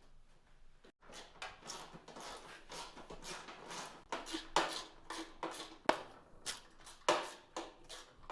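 Irregular clattering and clicking of small parts and tools being handled, with rustling between, and a few sharper knocks about four and a half, six and seven seconds in.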